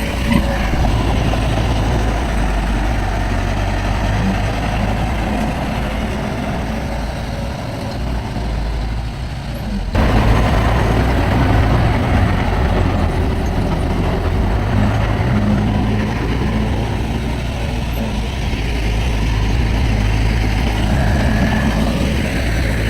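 Diesel engines of heavy earthmoving machinery running steadily under work. The sound steps up abruptly about ten seconds in.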